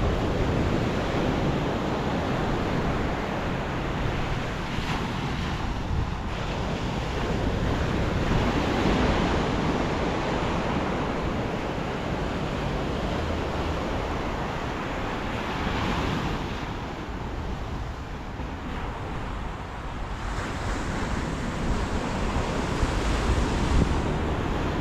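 Ocean surf breaking on the shore with wind buffeting the microphone, a steady rush that swells louder a few times as waves come in.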